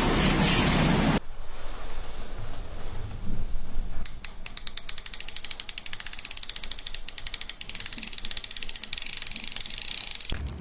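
Loud noise cutting off about a second in, then from about four seconds in a fast run of mechanical clicks, many per second, stopping just before the end.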